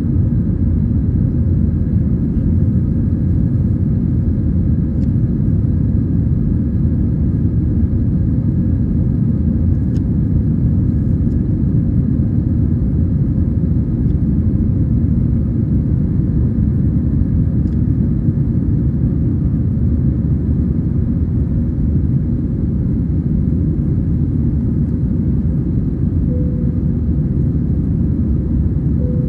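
Steady low rumble of an Airbus A320-214's CFM56-5B engines and airflow, heard inside the passenger cabin, with a faint steady hum over it.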